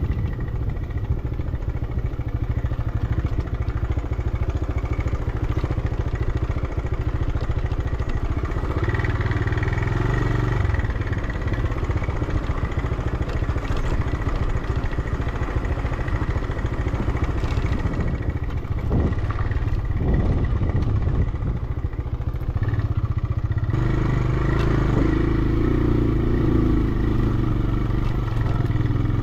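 Motorcycle engine running as the bike is ridden over a dirt track, the engine note shifting with the throttle about a third of the way in and again near the end.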